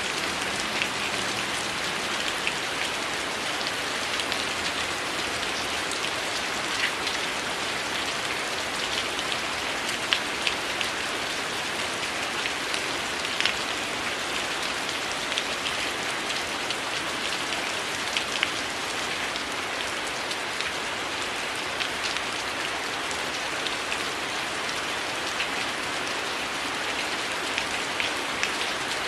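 Steady heavy rain falling, an even rushing hiss, with scattered sharp pops and ticks throughout.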